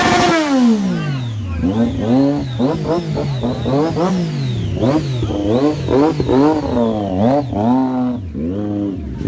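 Several motorcycle engines being revved again and again, their pitch rising and falling in quick, overlapping throttle blips.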